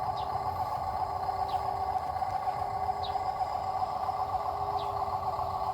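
Heavy machinery engine running steadily at a constant pitch, with a short faint high squeak about every second and a half.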